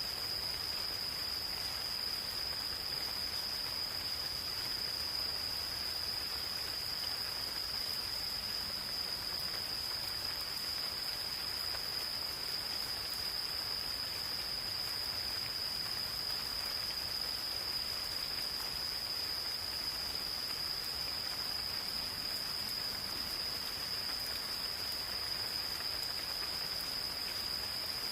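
Gentle rain falling steadily in a forest, with insects keeping up one continuous high-pitched trill.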